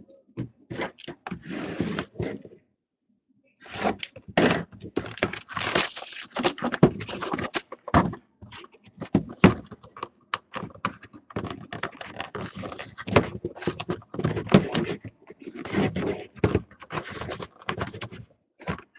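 Trading cards and their packaging being handled at close range: a run of scrapes, rustles and small knocks and taps, pausing for about a second near the start.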